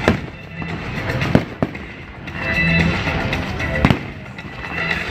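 Fireworks bursting overhead, with sharp bangs right at the start, two close together about a second and a half in, and one more near the end, over music playing in the background.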